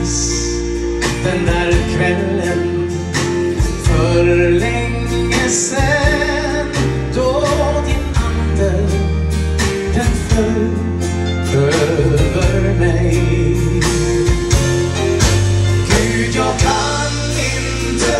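Live gospel music: a band with steady bass, drum beats and guitar, with a singing voice carrying the melody.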